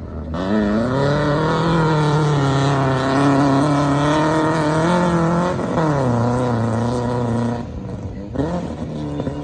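Race car engine revving hard as it accelerates: the pitch climbs about half a second in and holds high, drops sharply a little past the middle as if on a gear change, then settles lower and rises again near the end.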